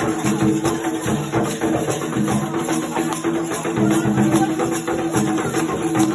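Afro-Brazilian Candomblé ritual music: dense, fast drumming and hand percussion keeping a steady rhythm.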